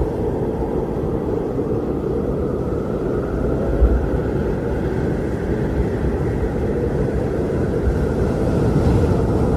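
Strong wind blowing steadily with a deep rumble, surging now and then in low gusts, with a faint higher whistle that swells and fades.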